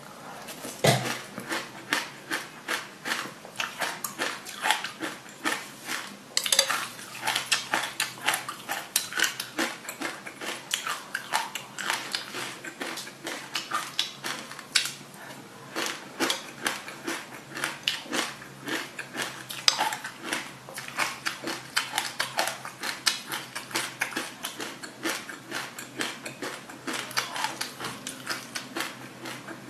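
Close-up chewing of a mouthful of sesame seeds and passion fruit pulp: a dense run of crisp crunches and clicks, several a second. Now and then a metal spoon clinks against the glass bowl.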